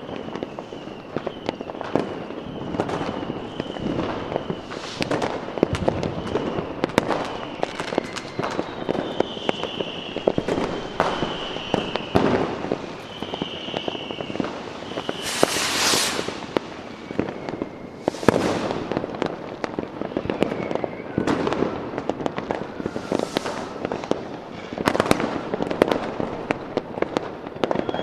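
Fireworks going off: a dense run of bangs and crackling. Through the first half there are thin high whistles that slide slightly lower, and a loud hissing burst comes about 15 seconds in.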